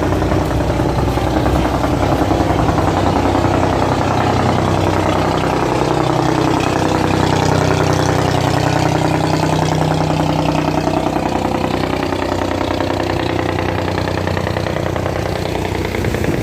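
Boat engine running steadily and loudly as a boat pushes upstream against the current, its note drifting up and down midway.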